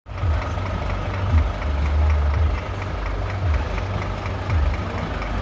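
Heavy truck's diesel engine idling steadily, a low rumble with a light, regular clatter.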